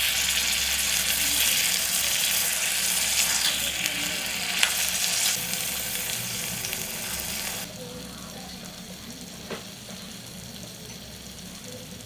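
Food sizzling in hot oil in a miniature pan, with a sharp click of a utensil partway through. The sizzle drops abruptly to a faint hiss about two-thirds of the way in, and there is another light click after that.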